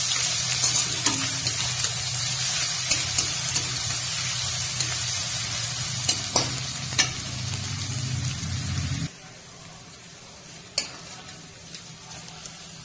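Ginger-garlic paste frying in mustard oil in a metal kadai, with a steady sizzle while a metal spatula stirs and scrapes, clicking against the pan now and then. About nine seconds in, the sizzle and a low hum beneath it drop away suddenly, leaving a fainter hiss and a few spatula clicks.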